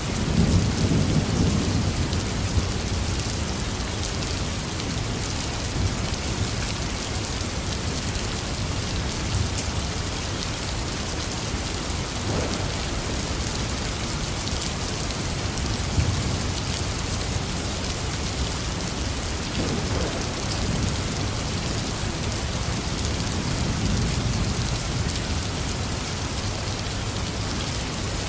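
Heavy rain falling steadily in a dense hiss, with low rolls of thunder swelling up several times, the strongest near the start.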